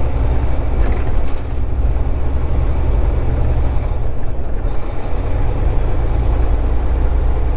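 Volvo 780 semi-truck's diesel engine and road noise heard from inside the cab, a steady low rumble as the truck pulls up a long hill under load. A brief high hiss comes about a second in.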